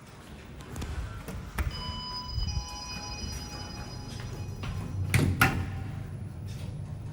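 Otis GeN2-Regen lift: an arrival chime of several ringing tones sounds about two seconds in over a steady low hum. A brief clatter of the sliding doors follows a little after five seconds.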